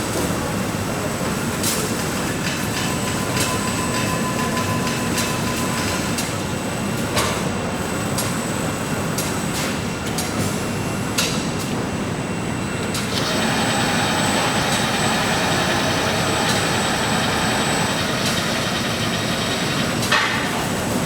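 Steady factory machinery noise with a few sharp clacks. About two-thirds of the way through, a machine starts up with a high whine that runs until near the end.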